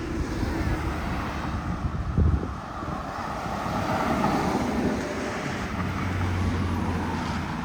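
Wind buffeting the microphone: an uneven low rumble with a strong gust about two seconds in, over a steady outdoor hiss.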